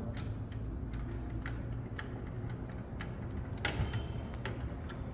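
Screwdriver tightening a CPU heat sink's mounting screw: small irregular clicks and creaks of the screw and tool, over a low steady hum.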